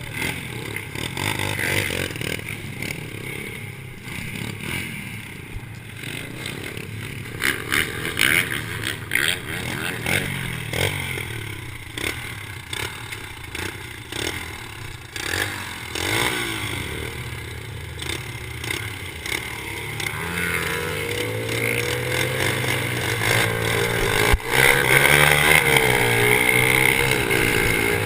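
Small pit bike engines running and revving on a motocross track, with clattering knocks early on. Later the engine pitch rises and falls repeatedly as the throttle is worked, growing louder near the end.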